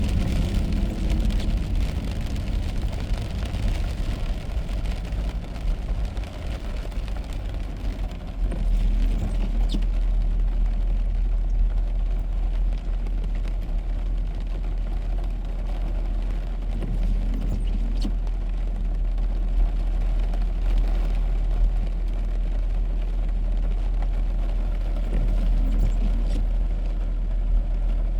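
A car driving on a wet road, heard from inside: a steady low rumble of engine and tyres with tyre hiss, stronger in the first few seconds. A faint short tick comes about every eight seconds.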